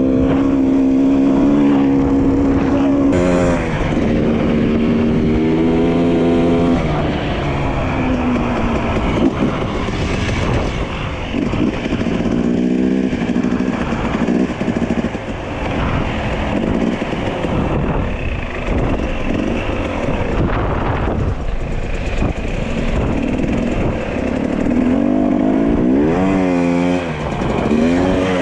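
Dirt bike engine running while being ridden, its revs rising and falling over and over, with a steady rush of wind and ground noise underneath; the revs climb near the end.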